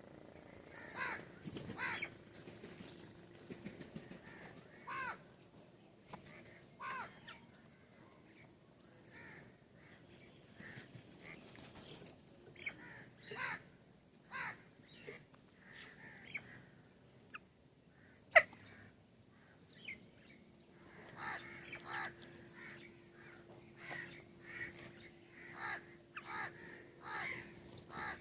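Birds calling at a feeder: short calls in irregular bouts, busiest near the start and over the last several seconds. One sharp click about 18 seconds in is the loudest sound.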